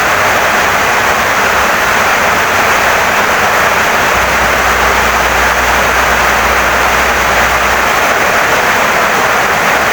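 Heavy rain pouring steadily onto a wooden house, an even dense hiss with no breaks. A low rumble sits underneath for a few seconds in the middle.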